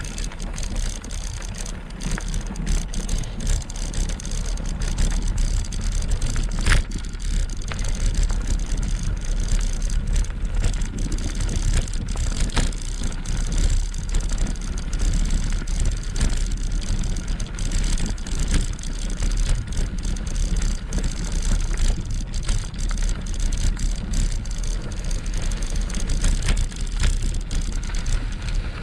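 Riding an e-bike: a steady rush of wind and tyre-on-road rumble, with many small rattles and knocks throughout.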